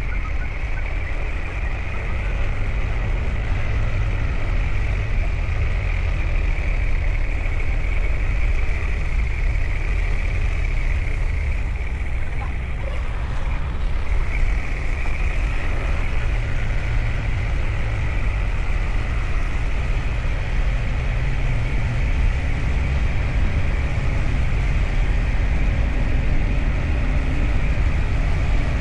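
BMW R 1250 GS boxer-twin motorcycle under way: a steady low rumble of engine and rushing air, unbroken throughout.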